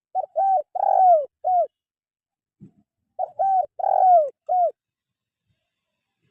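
Spotted dove cooing: two identical phrases of four coos about three seconds apart, each coo falling in pitch and the third the longest.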